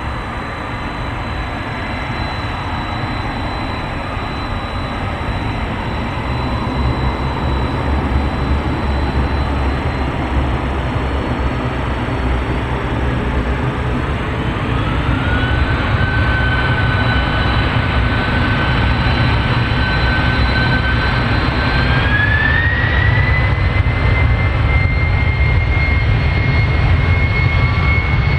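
Twin jet engines of a Boeing 767-300 spooling up for takeoff: a steady jet rumble that grows louder, with a whine that rises in pitch about halfway through and again a few seconds later, then holds high as thrust is set.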